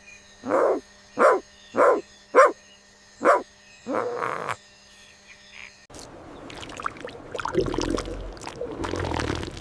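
A series of short animal calls repeated about every half second, then a cut near the end to a rough, low, noisy animal sound.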